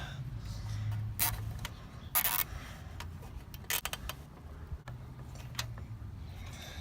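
Scattered clicks and a few short plastic rasps of a nylon cable tie being threaded and pulled tight on a lawnmower's engine cover, the clearest rasp about two seconds in.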